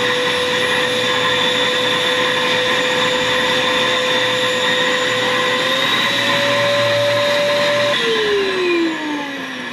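Pet grooming vacuum motor running with a steady whine, its pitch stepping up slightly about six seconds in. About eight seconds in it is switched off and winds down with a falling whine.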